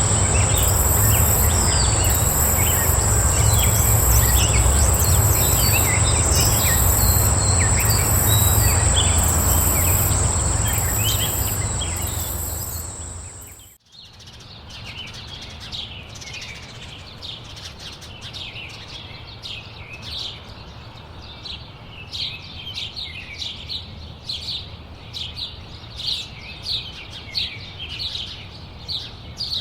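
Steady high-pitched insect buzz with a faster pulsing trill above it, over a broad rush of background noise and scattered bird chirps; it fades out about halfway through. Then small songbirds chirp, many short notes repeated in quick succession over a quieter background.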